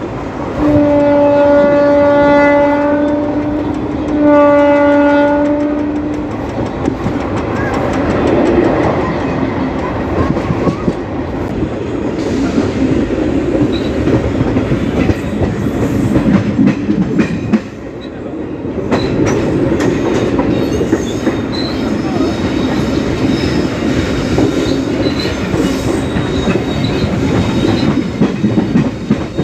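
Two blasts of a WAP4 electric locomotive's horn, each about two to three seconds long on the same note. After them comes the steady rumble and rhythmic clickety-clack of an ICF passenger coach's wheels running at speed over the track.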